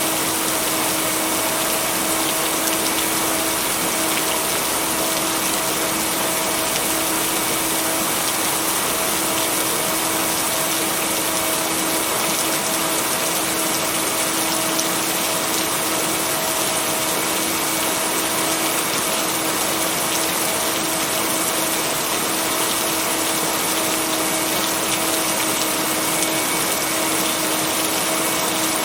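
Steady heavy rain with a soft, even hiss and no thunder, mixed with a low steady hum of two tones, the blended binaural-beat track.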